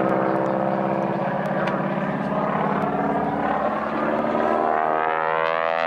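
Propeller airplane's engine droning steadily in flight, with a sweeping, rising tone building over the last couple of seconds.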